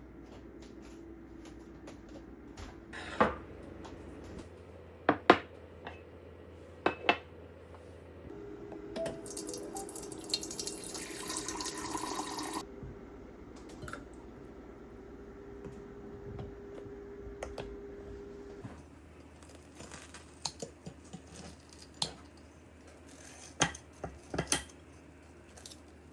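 Kitchen work at a sink: dishes and utensils clink sharply now and then, and a tap runs for about three and a half seconds near the middle.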